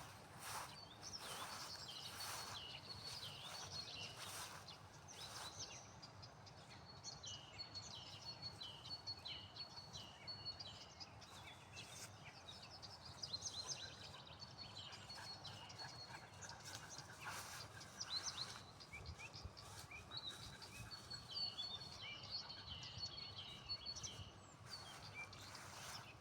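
Several songbirds chirping and singing at once, faint, with many short chirps and trills overlapping. A few brief soft knocks or rustles come in the first few seconds and again about two-thirds of the way through.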